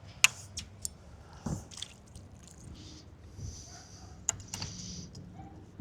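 Faint water sounds, small splashes and drips, with a scattered handful of sharp clicks from handling fishing tackle and live bait.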